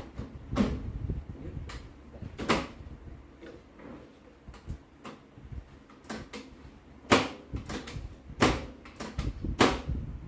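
Microwave oven door and its latch mechanism being worked: about a dozen sharp plastic clicks and clunks at uneven intervals, the loudest about seven seconds in.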